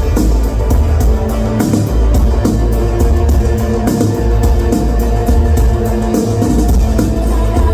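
Experimental post-rock band playing live, instrumental: a heavy, booming bass under sustained guitar tones, with a steady drum beat and regular cymbal hits.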